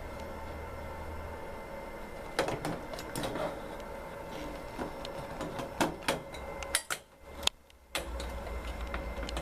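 Butterfly embroidery machine running with a steady hum, broken by irregular sharp clicks and knocks from a couple of seconds in. It drops quieter for about a second a little past halfway, then comes back with a fast, even low pulsing.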